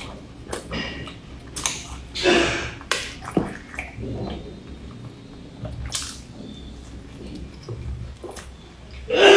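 Close-miked eating sounds: biting into and chewing a soft, crumb-topped pastry, with wet squishy mouth noises and small crackles at irregular moments. Louder stretches come about two seconds in and again near the end.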